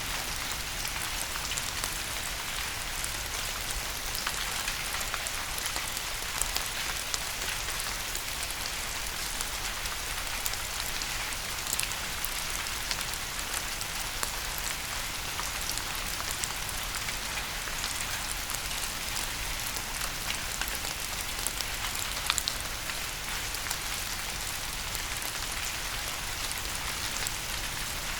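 Steady rain: a dense, even hiss with sharper single drops ticking now and then, one of the loudest about three quarters of the way through.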